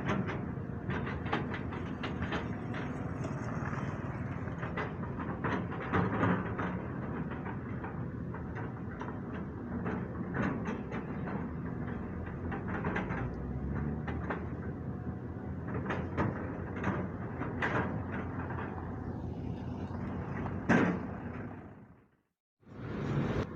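Caterpillar 320D2 hydraulic excavator's diesel engine running steadily under load while digging and loading soil, with frequent metal clanks and knocks from the bucket and machine; one louder knock near the end, and the sound cuts out briefly just before it ends.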